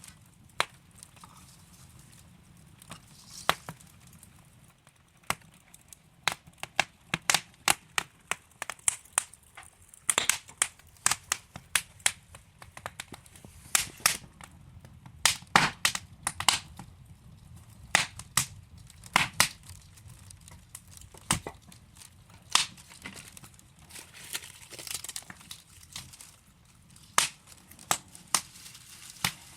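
Wood fire burning in a fireplace, with a low steady rumble of flame and many irregular sharp pops and crackles from the burning logs, busiest in the middle stretch.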